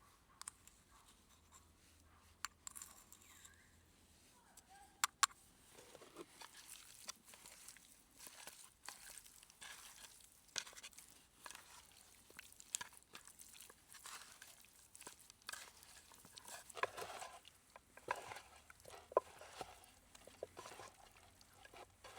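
Close-up handling sounds: scattered sharp clicks and taps with short crunching and rustling, sparse at first and growing busier about six seconds in.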